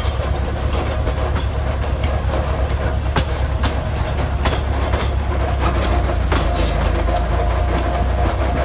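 Rail vehicle running on track: a steady low rumble with scattered sharp clicks.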